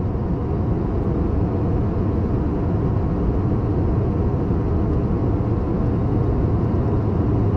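Steady low rumble of a passenger airliner's engines, heard inside the cabin.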